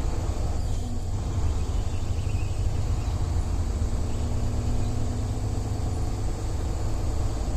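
Semi-truck's diesel engine running, a steady low rumble heard from inside the cab.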